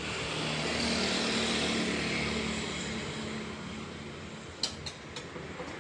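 A vehicle engine drone that swells over the first second or two and then slowly fades, like a vehicle passing. A few sharp clicks come near the end.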